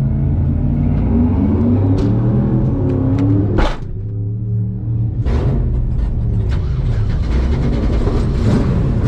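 Truck engine running, its pitch rising as it is revved, with a short sharp noise about three and a half seconds in.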